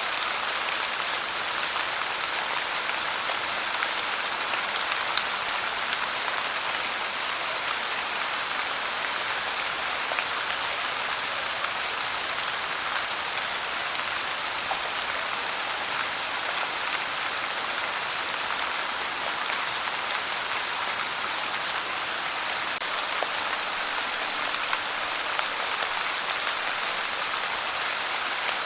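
Steady pouring rain: an even hiss of rainfall with scattered individual drop ticks, unchanging throughout.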